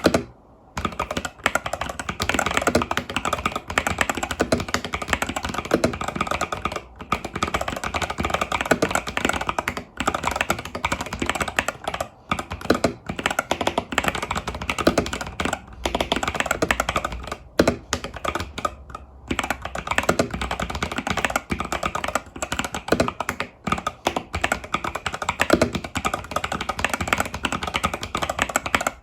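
Epomaker TH80 Pro mechanical keyboard with Epomaker Budgerigar tactile switches and stock keycaps, typed on in fast, continuous runs of keystrokes with a few brief pauses.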